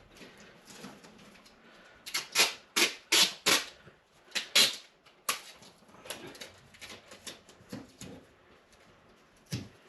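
Ducting tape being pulled and torn off the roll and pressed onto the dryer vent duct to seal a breach: a run of short, sharp rips, loudest in a cluster of five or six between about two and five seconds in, with fainter rustles and taps around them.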